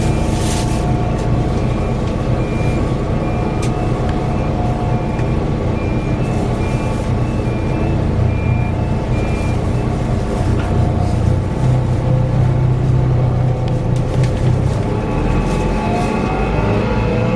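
Scania K340 coach running, its engine drone overlaid by a steady whirring whine. The whine's tones shift and rise in pitch near the end.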